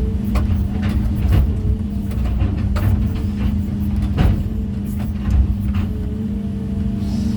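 Heavy machine's diesel engine running steadily at working speed, with scattered sharp knocks of natural stone being handled and set.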